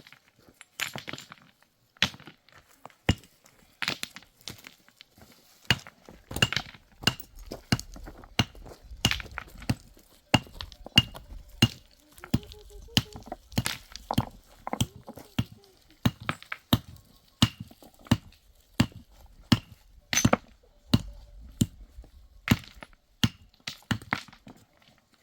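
Repeated sharp strikes, irregular, about one or two a second, some with a brief ringing note, like a tool striking wood or stone.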